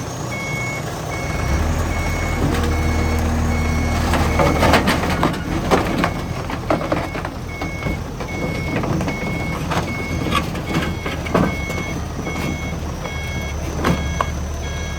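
A reversing alarm beeps over and over on top of a diesel engine running, the engine getting louder about a second and a half in. Sharp clanks and knocks come in the middle and now and then after.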